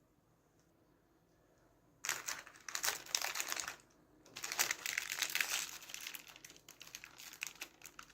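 Crinkling, crackling noise in irregular bursts that starts suddenly about two seconds in, with a short break just before the fifth second.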